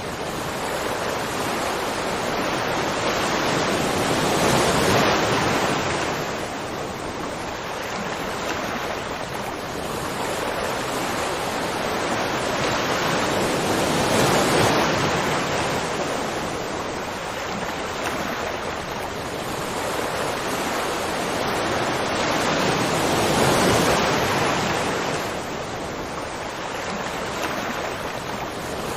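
Rushing water: a steady roar that swells and eases about every nine seconds.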